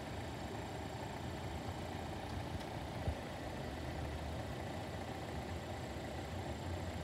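A car engine idling steadily, a low hum, with one short knock about three seconds in.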